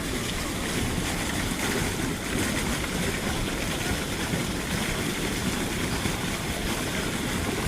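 A steady rush of floodwater: a stream or river in spate, swollen by heavy rain, with an even, unbroken noise that is heaviest in the low end.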